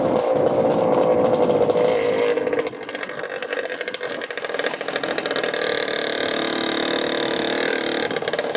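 Motorcycle engine running under throttle with a slowly falling pitch, then easing off about two and a half seconds in and running on more quietly and steadily.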